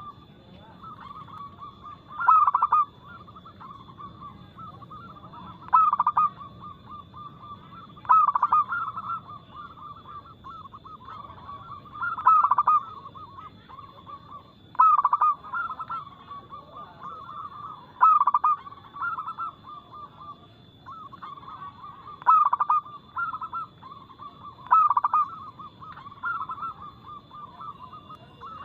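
Zebra doves (perkutut) cooing continuously: soft rolling coos, broken about every three seconds by a loud, accented song phrase. A faint steady high-pitched whine runs underneath.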